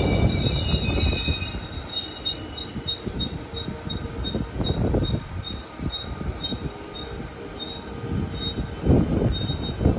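Electric commuter train pulling away along the platform: a heavy rumble of wheels on the rails that swells and fades in surges, with a thin, high wheel squeal cutting in and out over it.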